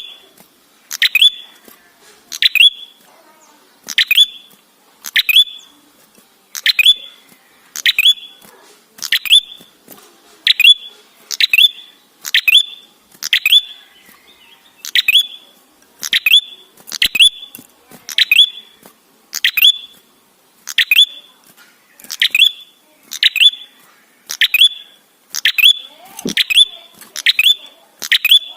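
Prenjak kepala merah (a small tailorbird-type songbird) giving a sharp, high chirp over and over at an even pace, just under one call a second, played as a lure call to draw other prenjak into calling.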